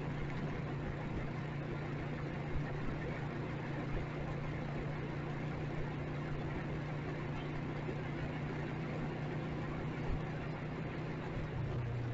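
Motorcycle engine running at a steady pitch, dropping slightly near the end, over a constant wash of road and traffic noise.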